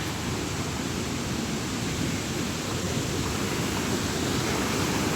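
Waterfall and river water rushing in a steady, dense noise, heaviest in the low range, growing slightly louder toward the end.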